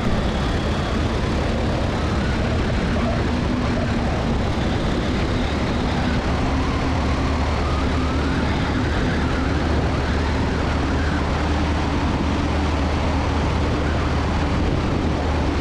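Aeronca 7AC Champ heard from inside the cabin while gliding on final approach: the engine running at idle power under a steady rush of airflow, with a constant low drone that does not change.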